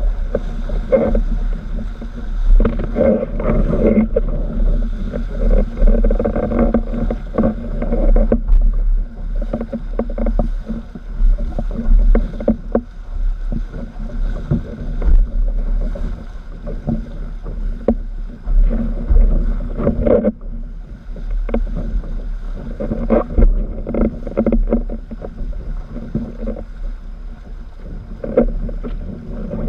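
Strong wind buffeting the microphone in a heavy low rumble, with water rushing and many short slaps and splashes as a windsurf board crosses choppy water.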